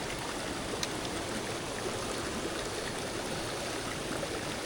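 Mountain headwater stream flowing steadily.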